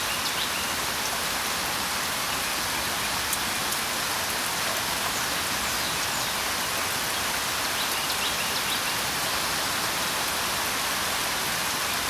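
Steady rain falling, with a few short bird chirps: a cluster right at the start and another about eight to nine seconds in.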